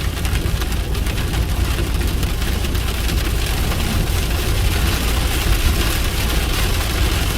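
Steady low rumble of a car driving, heard from inside the cabin, under an even hiss of heavy rain on the vehicle.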